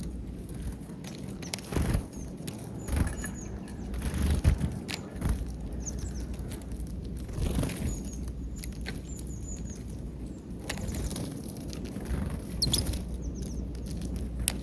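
Small birds feeding on peanuts: many short, high chirps, scattered taps and clicks from pecking and landing, and brief wing flutters, over a steady low rumble.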